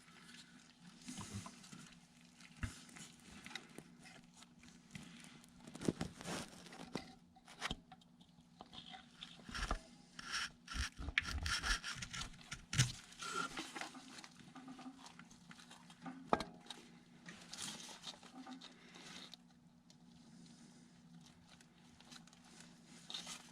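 Faint scraping, rubbing and light clicks and knocks of metal parts being handled as a mechanical fuel lift pump is worked down into its bore in the engine valley of a 7.3 Power Stroke diesel and bolted in, with a low steady hum underneath.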